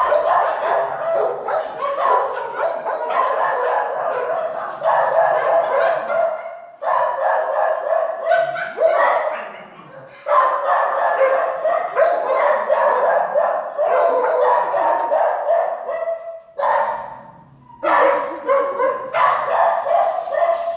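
Many shelter dogs barking together in the kennels, a dense overlapping chorus of barks. It dies down briefly about seven, ten and seventeen seconds in.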